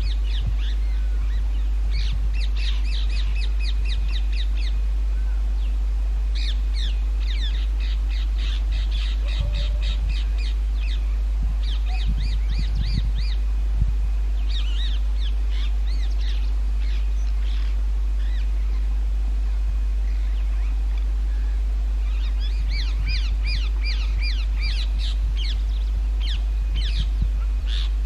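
Rose-ringed (Indian ringneck) parakeets calling in bouts of rapid, repeated shrill notes, several a second, with pauses between the bouts. A steady low rumble runs underneath.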